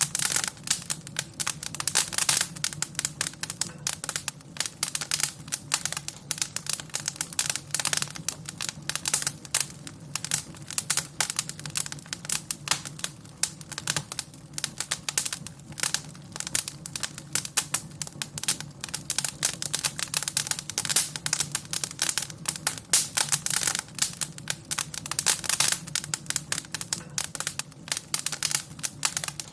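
Wood fire crackling in a fireplace: a dense run of irregular sharp pops and snaps over a low steady rumble of the burning fire.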